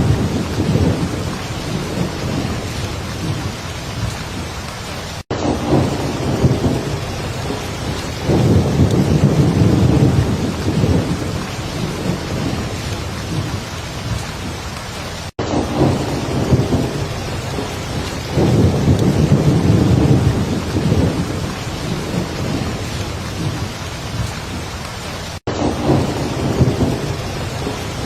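Heavy, steady rain with thunder rumbling low and swelling up a couple of times. The sound cuts out for an instant three times, about every ten seconds.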